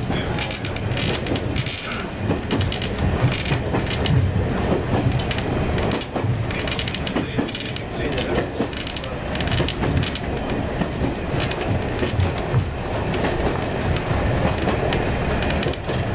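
Train running along the line, heard from the cab, with a continuous rumble and irregular clattering of the wheels over the rail joints.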